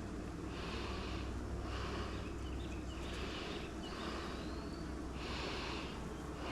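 A person breathing hard close to the microphone, a short rush of air every second or two, over a steady low hum.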